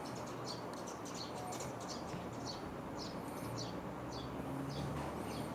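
Small birds chirping repeatedly, many short high chirps.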